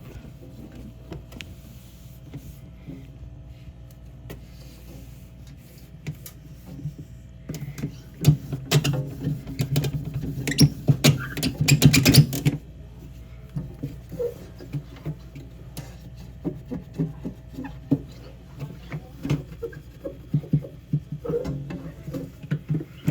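Hands scrubbing and wiping the inside of a mini fridge, with scattered knocks and clicks as things are handled. A burst of fast, hard scrubbing strokes runs for about five seconds in the middle.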